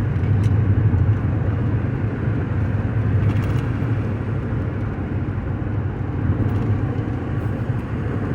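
Steady low drone of a Toyota Solara driving at freeway speed, heard from inside the cabin: engine and tyre noise. A few faint ticks sound over it.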